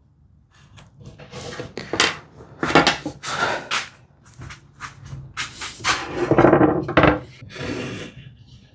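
Irregular wooden knocks and scraping strokes on a workbench as hand tools and a solid cherry lid are handled during hinge layout, with a longer scraping passage past the middle.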